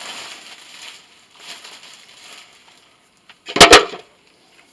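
Two loud, sharp knocks in quick succession about three and a half seconds in, after faint rustling and handling noise during hands-on scrap teardown work.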